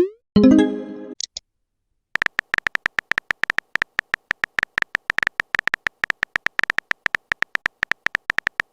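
Chat-app sound effects: a rising blip and a short chiming message alert at the start, then, after a brief pause, a fast, irregular run of short beeping typing clicks, about eight a second.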